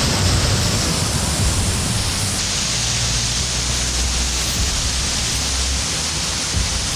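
Waterfall rushing steadily, a continuous loud roar of falling water.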